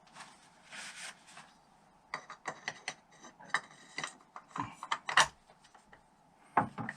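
Metal tools and engine parts being handled on a workbench: a short scrape about a second in, then a run of irregular sharp clicks and clinks, the loudest just after five seconds, with a few more near the end.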